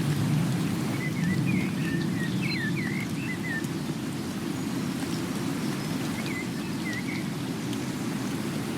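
Steady rain: an even hiss with a heavy low rush underneath and fine scattered drop ticks. A few short high chirps come about a second in and again near seven seconds.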